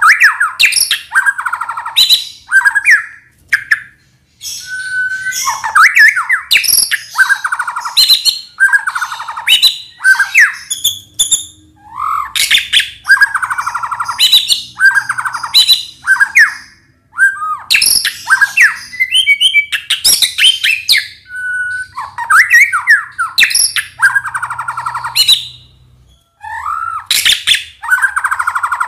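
White-rumped shama (murai batu) singing loudly in varied phrases, each a second or two long with short pauses between. The phrases mix fast rattling trills with sharp, sweeping high whistles.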